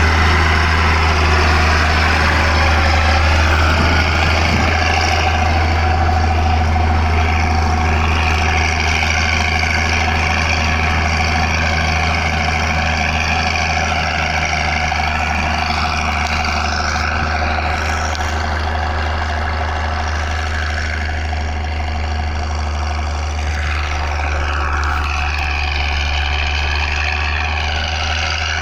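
A heavy engine running steadily: a deep, even drone with a higher, slowly wavering whine above it.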